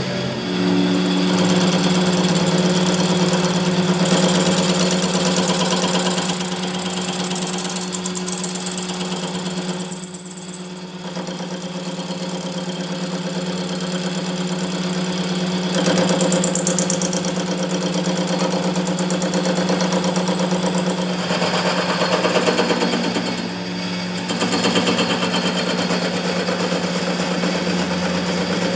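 Workshop machinery running loudly, with a steady motor hum under a fast mechanical rattle. It eases briefly about ten seconds in and again a little after twenty seconds.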